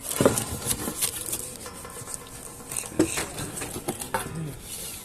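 Irregular knocks and clatter of cooking utensils and dishes being handled.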